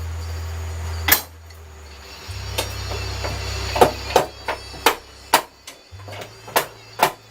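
Hammer blows, about ten sharp strikes at an uneven pace, coming faster in the second half.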